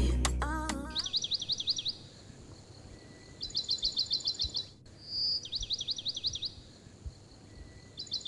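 Background music fading out, then a small bird singing: quick trills of about ten high chirps, each about a second long, coming every couple of seconds, with one short clear whistle in between.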